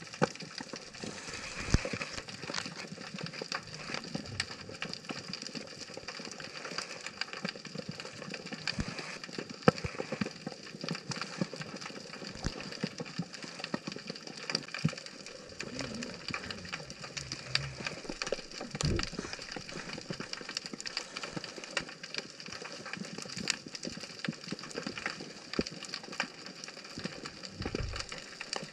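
Underwater crackling of a rocky reef: a dense, continuous stream of sharp clicks from snapping shrimp, with a few louder single snaps.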